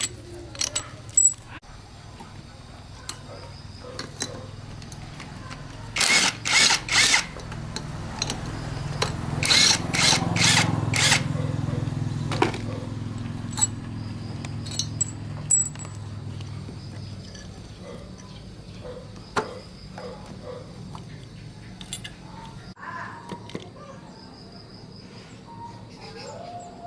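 A small power tool's motor runs for about the first seventeen seconds, with two spells of loud harsh grinding about six and ten seconds in, and scattered clicks and knocks of metal parts being handled.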